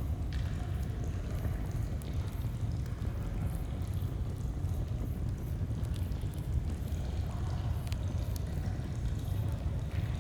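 Stream water flowing in a steady low rush, with the scattered small pops of a crackling campfire over it.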